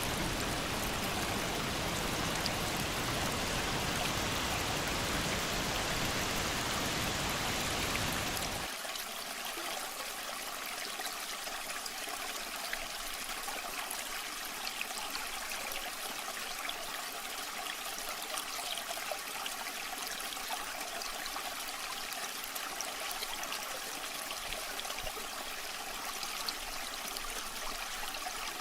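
Waterfall water rushing steadily. About nine seconds in, the sound changes abruptly from a full, dense rush to a thinner, splashier trickling with the deep part gone, as if a different stretch of water takes over.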